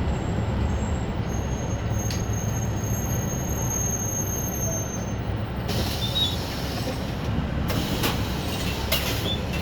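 City bus interior: steady low engine and road rumble, with a thin high squeal in the first half as the bus slows, then a hiss and a few clicks about six seconds in.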